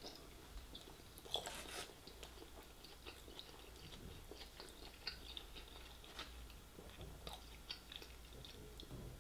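Faint close-up chewing of a battered sweet and sour chicken ball: soft, irregular mouth clicks and squelches, a little louder about a second and a half in.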